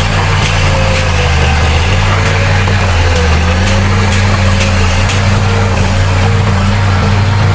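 Heavy diesel earthmoving machinery running steadily, a deep engine drone whose pitch shifts slightly, with faint sharp clicks recurring about twice a second.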